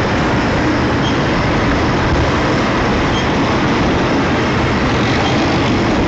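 Union Pacific double-stack container cars rolling past, a loud, steady noise of steel wheels running on the rails.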